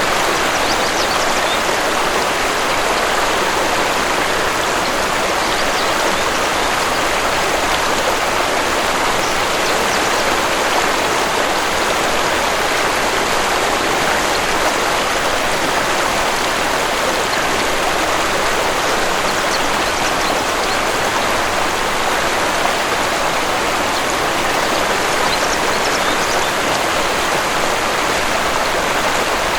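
Waterfall water rushing and splashing as a steady, even hiss that holds constant throughout.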